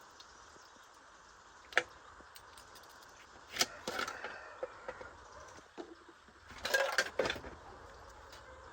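Clinks and knocks of small hard objects being handled: a single sharp click about two seconds in, then two rattling clusters about four and seven seconds in, over a steady background hiss.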